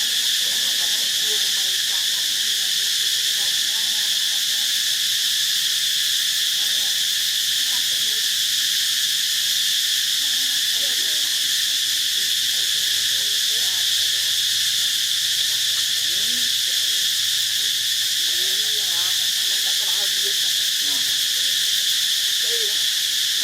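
Steady, unbroken high-pitched insect chorus, with faint wavering sounds underneath.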